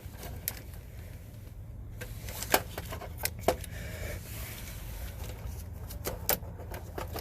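Scattered sharp clicks and knocks of a new HVAC contactor being set into a heat pump's control panel and handled with tools, over a steady low hum.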